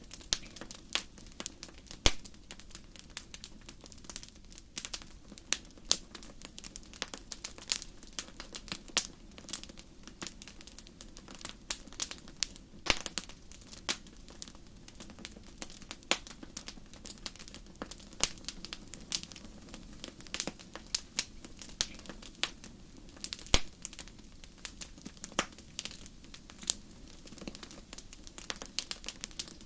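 Fireplace fire crackling: irregular sharp pops and snaps, several a second, over a low steady rush of flame. Two pops stand out louder, one about two seconds in and one about three quarters of the way through.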